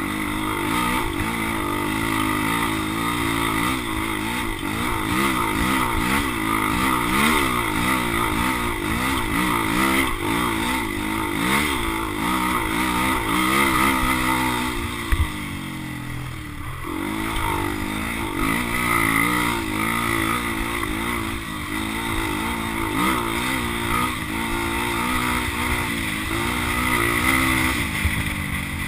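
Dirt bike engine being ridden, its pitch rising and falling over and over as the throttle is worked. About halfway through there is a short thump and the engine briefly drops to a lower pitch before it picks up again.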